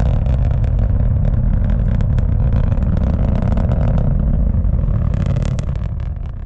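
Antares rocket's first-stage RD-181 engines heard from the ground during launch: a loud, steady low rumble full of crackling, fading near the end.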